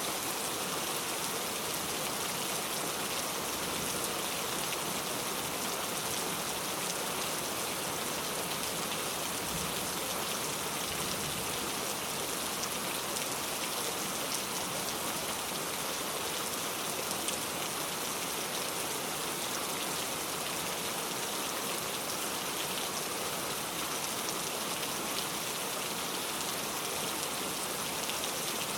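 Heavy rain falling steadily, a dense even hiss speckled with the patter of individual drops on surfaces.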